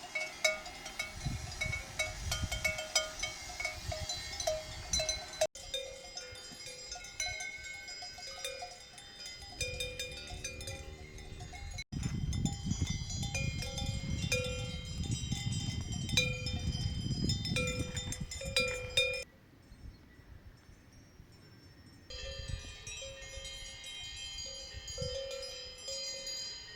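Several cowbells on grazing alpine cows clanking irregularly at different pitches, with wind rumbling on the microphone in places.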